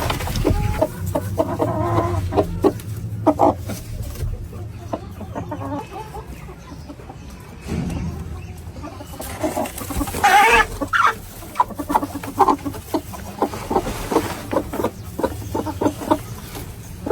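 Aseel chickens clucking in short, repeated calls, with one louder, longer call about ten seconds in.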